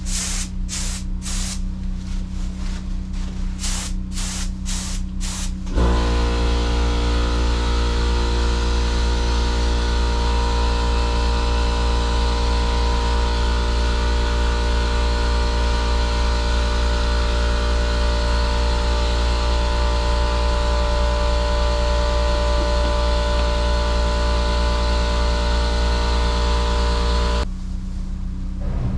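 Automotive paint spray gun hissing in about eight short bursts as base coat is sprayed. About six seconds in, a loud, steady motor hum with hiss starts, and it stops suddenly near the end.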